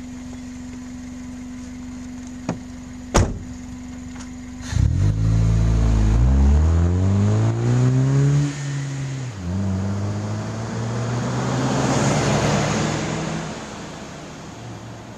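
Hyundai Tiburon with an aftermarket exhaust accelerating hard past, its engine note rising, dropping at a gear change, then rising again. The sound swells as the car goes by and fades away.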